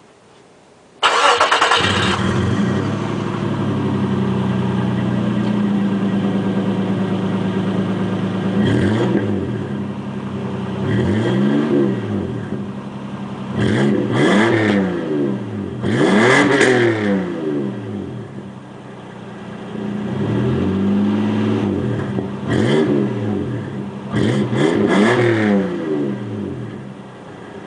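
1996 Nissan Pathfinder engine breathing through a custom Flowmaster exhaust and K&N intake: it starts about a second in, idles steadily, then is revved repeatedly in short blips, each rising and falling in pitch.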